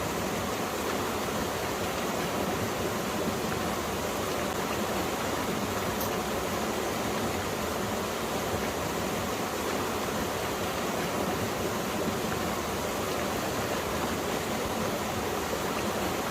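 Mountain valley stream flowing, a steady, unbroken sound of running water.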